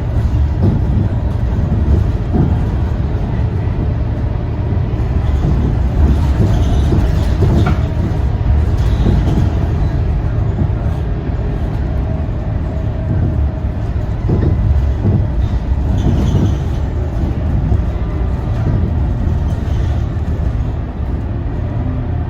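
Scania K230UB city bus's diesel engine running, heard from inside the bus as a steady low drone, with a few short rattles and knocks from the body.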